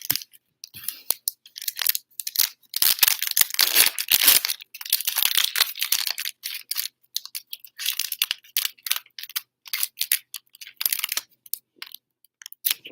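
Packs of Playbook football trading cards being torn open by hand, their wrappers tearing and crinkling in a run of rustling strokes, densest a few seconds in.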